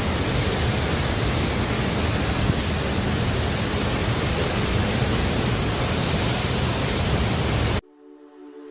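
Waterfall rushing: a loud, steady, dense noise of falling water that cuts off abruptly near the end, followed by faint music starting.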